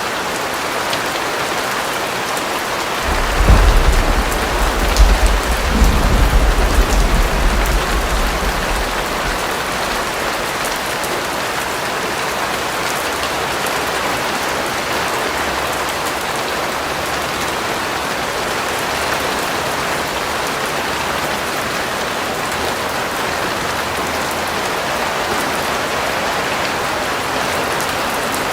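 Steady rain falling, an even hiss of drops on a surface. About three seconds in, a deep rumble swells up for several seconds and fades out.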